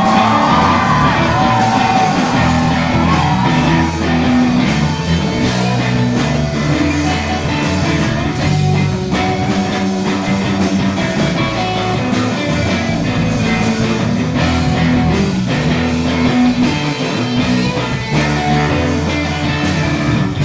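Live rock band playing, guitar and bass carrying the music, with a sung vocal line in the first few seconds.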